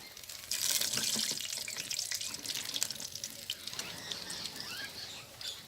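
Chicken pakoras deep-frying in hot oil: a steady sizzle with many fine crackles, rising sharply about half a second in.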